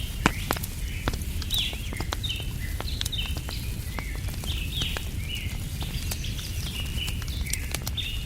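Wood fire crackling with scattered sharp pops, under a steady low rumble. Over it a small bird chirps over and over in short notes, several a second.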